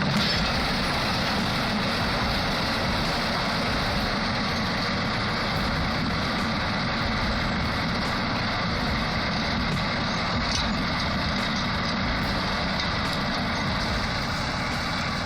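Heavy vehicle engine running steadily under load, a dense, even rumble and roar.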